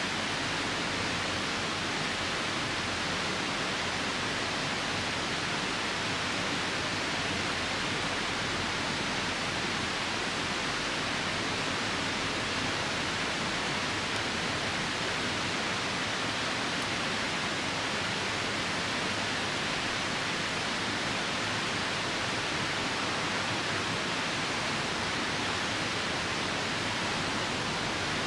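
Steady, even rushing of a nearby river, mixed with falling rain.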